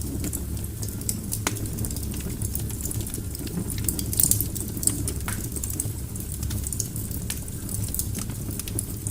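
Wood fire burning in a fireplace: a steady low rumble of flames with frequent sharp crackles and pops from the burning logs, and a quick cluster of louder pops about four seconds in.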